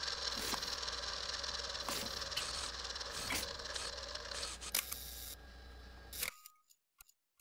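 Faint steady background noise with a low hum and scattered sharp clicks and ticks, cutting off abruptly to silence a little over six seconds in.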